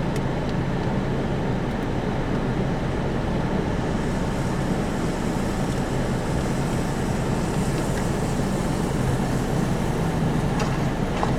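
Steady road and engine noise heard from inside a moving car, a low, even rumble.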